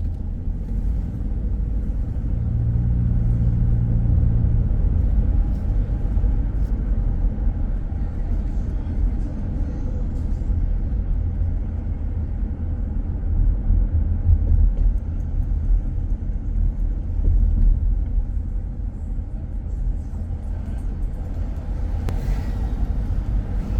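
Car on the move: a steady low road and engine rumble, with a low hum swelling for a few seconds near the start.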